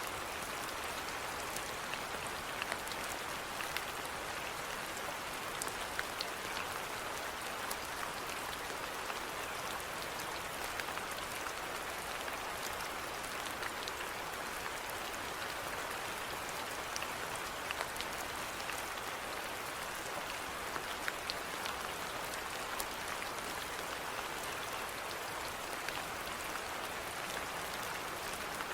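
Steady rainfall, an even hiss with many individual drops pattering on a surface.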